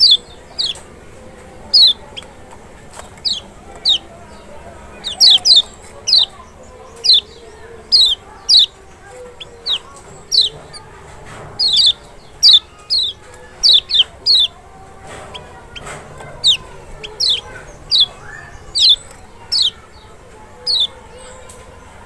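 Lemon-bellied white-eye (kecial, Zosterops chloris maxi) calling: sharp, high, downward-slurred notes repeated more than once a second, some in quick pairs.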